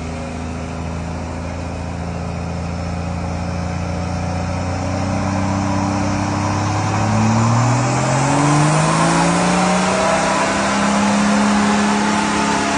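Car engine running steadily, then rising in pitch and getting louder over several seconds as it is revved up or accelerates, then holding at the higher speed.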